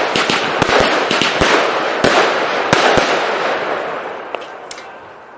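Prestigious 'Lightning Strike' firework going off: a dense crackling with many sharp bangs, which thins out and fades away over the last two seconds with a few last pops.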